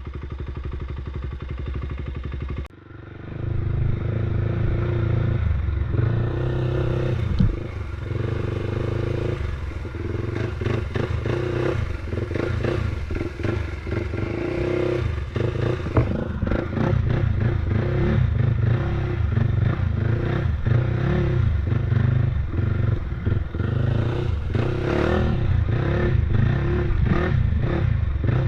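Off-road motorbike engine running at changing speed, with the bike clattering over rough ground. The sound drops out abruptly about three seconds in and builds back within a second.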